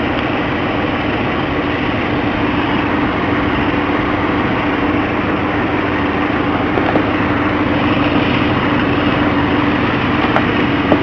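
1964 Chrysler Imperial's V8 engine idling steadily, with a constant hum running through it.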